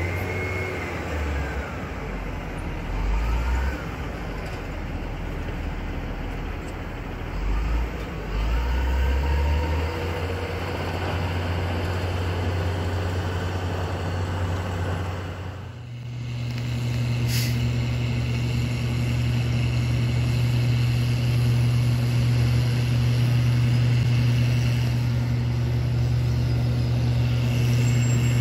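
Heavy snow-removal truck engines running, the revs rising and falling over the first half. After a brief dip about halfway through, one engine settles into a steady drone.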